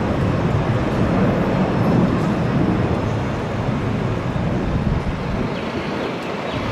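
Boeing 737-700's CFM56-7B jet engines at takeoff thrust, heard at a distance as a steady low rumble that eases slightly near the end.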